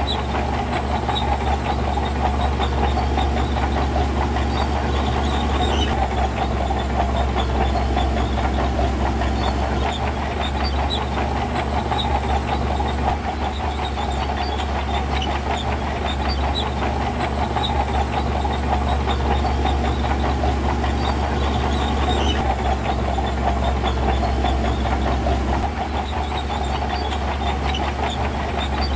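Diesel engine of heavy earthmoving equipment running steadily under load, with a deep hum and scattered small metallic clicks.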